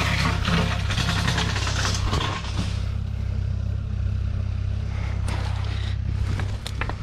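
Case C60 tractor's diesel engine running steadily, with a broad rushing noise on top for the first three seconds that then thins out.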